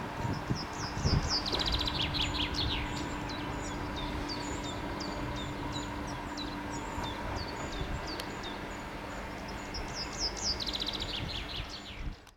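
Small songbirds singing, with repeated short high chirps and a couple of quick falling trills, over a low steady outdoor rumble. The sound cuts off abruptly just before the end.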